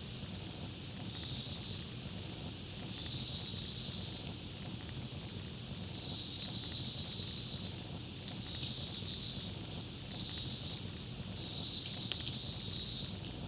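Campfire crackling, with scattered sharp pops over a steady low rumble of burning wood. Repeated high trills of about a second each sound over it again and again, with a few faint high chirps near the end.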